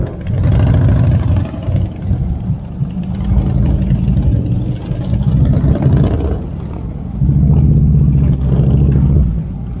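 Motorcycle engines rumbling and revving, getting loud three times as bikes go by or rev up.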